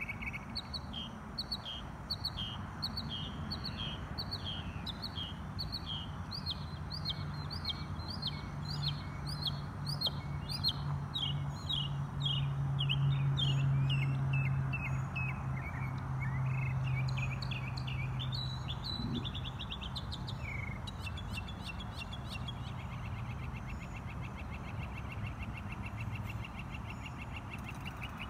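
Wild birds singing: a long run of short, quickly repeated chirps, changing later to a fast, even trill. A low steady hum sits underneath through the middle stretch.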